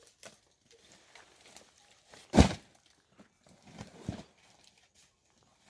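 Scattered small knocks and rustles, with one loud thump about two and a half seconds in and a few more knocks a second and a half later.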